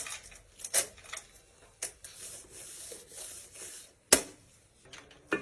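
Metal tools and engine parts handled at a workbench: scattered clicks and clinks with some rustling, and one sharp metallic knock about four seconds in.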